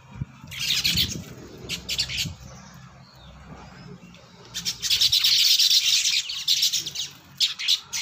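Small birds at a seed tray, baya weavers, chirping and chattering in quick bursts: two short bursts in the first couple of seconds, a louder one lasting about two seconds from about four and a half seconds in, and a few short ones near the end.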